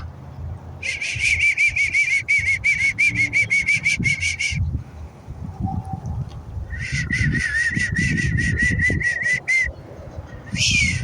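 Whistling in two long runs of rapid, evenly repeated notes at a fairly steady pitch, about seven a second, then a few separate higher whistles that rise and fall near the end.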